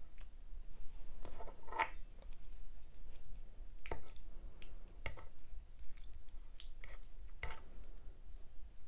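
Close-miked wet, squishy mouth sounds of someone eating creamy Alfredo pasta: a few separate smacks and squelches a second or two apart.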